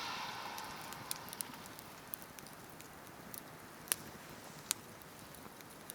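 Wood campfire crackling: scattered sharp pops and snaps, a few to several a second apart, over a faint steady hiss.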